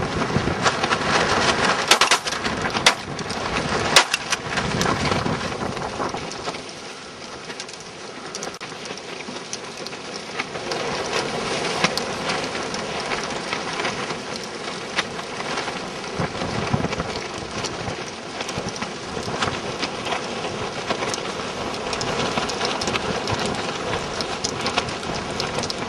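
A large flock of snow geese calling, a dense continuous clamor of many overlapping voices. Three sharp cracks stand out within the first four seconds.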